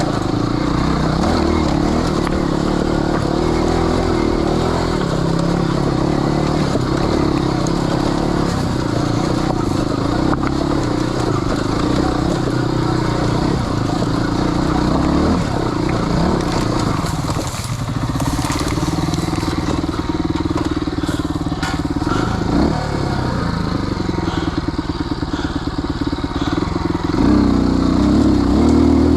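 Off-road motorcycle engine running on a rough trail, its pitch rising and falling with the throttle, with a few knocks and rattles about two-thirds through and higher revs near the end.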